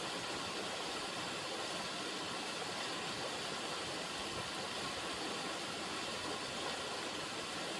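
River water running, a steady, even rushing hiss with no breaks or changes.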